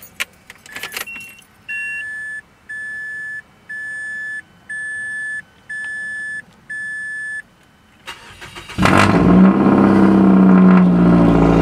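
Keys rattle and click into the ignition of a Mazda3, then its dashboard warning chime beeps six times, about once a second. Near the end the starter cranks briefly and the four-cylinder engine catches, settling into a loud, steady fast idle near 2,000 rpm.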